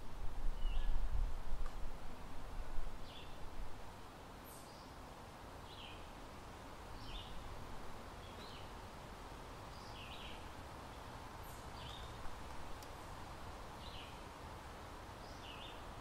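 A small bird chirping outdoors, short chirps repeated every second or so over a steady hiss, with a low rumble during the first four seconds.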